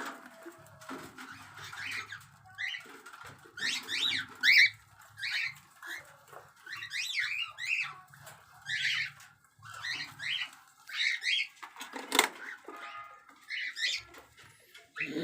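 Cockatiels calling in many short, quick chirps one after another, with a single sharp knock about twelve seconds in.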